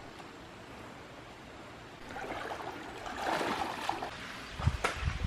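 Water running in a creek through a narrow rock slot canyon: a steady rushing that fills out about two seconds in, with a few knocks and low thumps near the end.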